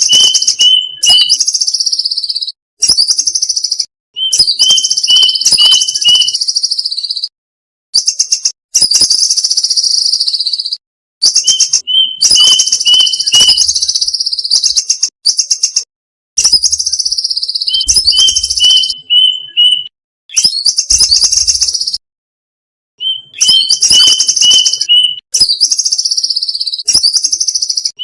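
Violet cuckoo calling, as a looped lure recording: phrases of one to four seconds with short silent gaps between. Each phrase has rows of short, sharp, same-pitched notes in quick succession, overlaid by higher whistles that fall in pitch.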